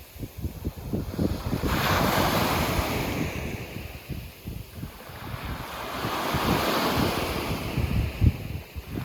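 Sea waves breaking on a beach. One wave crashes suddenly about two seconds in and washes out, and a second swells up and breaks in the second half. Wind buffets the microphone throughout.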